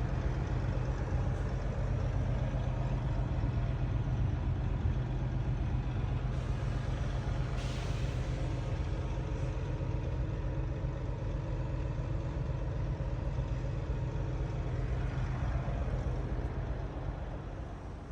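Heavy diesel truck engine running steadily, with a short hiss about seven and a half seconds in; the sound fades away near the end.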